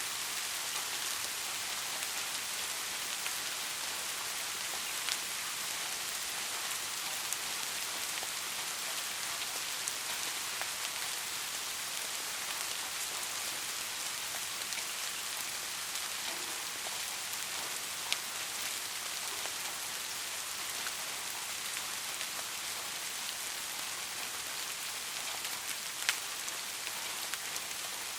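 Steady rain falling, an even hiss with scattered sharper drop ticks; one drop hits louder near the end.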